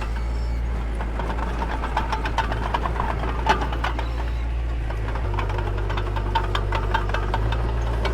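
Heavy earthmoving machine's engine running steadily with a low drone, with frequent irregular metallic clanks and rattles.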